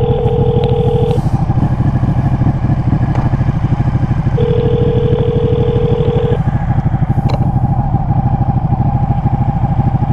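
Telephone ringback tone through a Bluetooth helmet headset, ringing twice for about two seconds each with a four-second gap while the call waits to be answered. Under it a motorcycle engine idles steadily.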